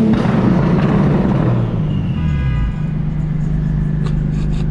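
Big-turbo BMW 335i's turbocharged straight-six running hard on the road after a quick rev, with a brief high whine about two seconds in. Near the end comes a quick run of sharp exhaust pops.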